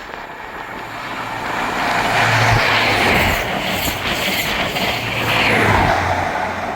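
A ScotRail HST passing through the station without stopping, a pair of Class 43 diesel power cars with coaches between them. It is a rushing wheel-and-rail noise that builds, stays loud for a few seconds and fades. A low engine drone passes twice, once for the leading power car about two seconds in and once for the trailing power car near the end.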